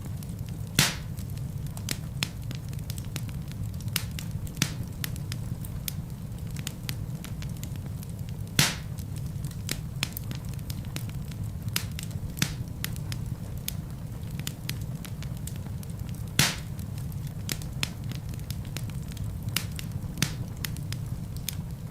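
Wood fire burning in a fireplace: a steady low rumble of the flames with constant small crackles, and three louder pops from the burning logs, about eight seconds apart.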